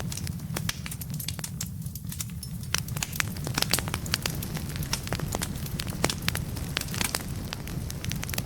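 Firewood burning in a fireplace, crackling with many sharp pops over a steady low rumble. The crackles thin out about two seconds in and come thicker from about three seconds.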